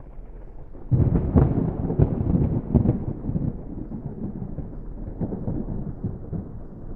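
5.7 Hemi V8 exhaust through a Flowmaster Outlaw muffler, a deep rumble under throttle. It jumps up sharply about a second in, pulses unevenly for a couple of seconds, then eases back to a lower steady drone.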